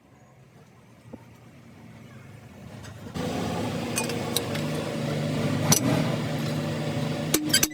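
A machine running steadily, cutting in abruptly about three seconds in, with a few sharp metallic clicks over it. Music with regular percussive knocks begins at the very end.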